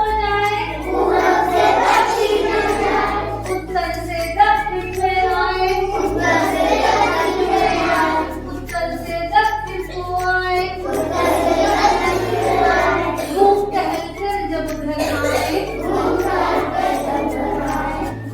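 A children's song: singing over a musical backing track with a steady bass line.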